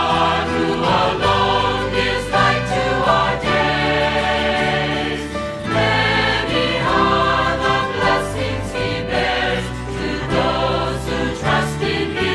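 A choir singing a Christian worship song over sustained low accompaniment, with held and changing chords.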